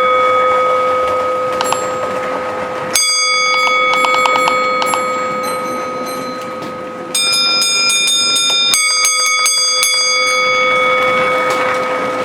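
A bell struck about three times, each stroke ringing on and slowly dying away over a few seconds.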